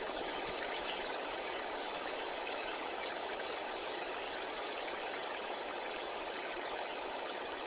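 Steady rainfall, an even hiss with no single drops or strikes standing out.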